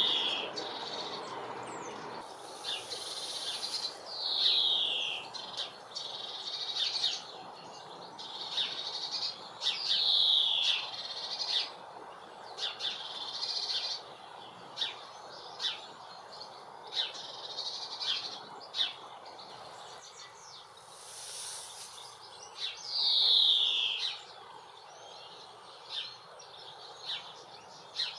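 Female greenfinch calling: four drawn-out buzzy wheezes, each falling in pitch over about a second, with short chirps and ticks between them.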